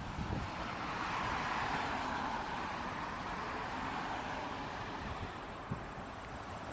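Jet airliner engines on a takeoff run, a broad rushing noise with low rumble that swells over the first couple of seconds and then slowly fades.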